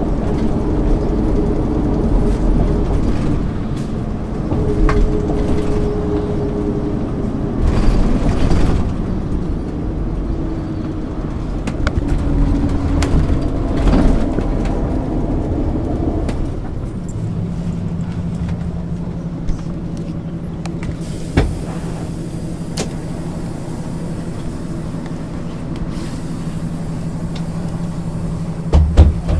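Engine of a 1999 MAN ÜL 353 bus heard on board, running with shifting pitch for the first half, then settling into a steady idle for the rest.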